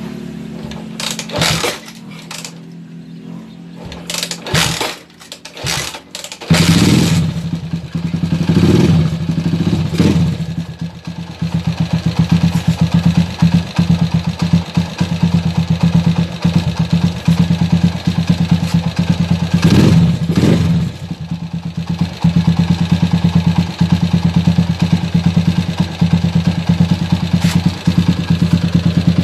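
Kawasaki TMX 155's single-cylinder pushrod four-stroke engine: a few sharp knocks, then it starts about six seconds in and runs steadily with a fast, even beat. This is the engine being run to check the valve clearance, just adjusted to stop a ticking rocker arm.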